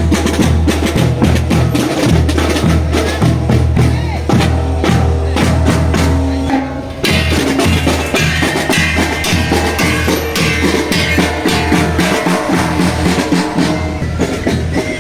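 Marching drum band playing: snare and bass drums keep a rapid, steady beat, and about halfway through higher melodic notes come in over the drums.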